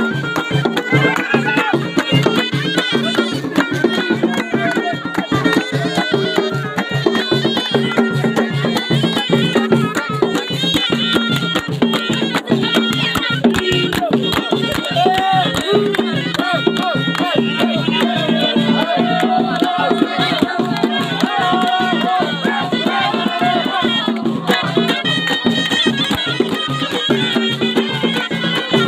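Ghaita, the Moroccan double-reed shawm, playing an ornamented folk melody over a fast, steady drum beat.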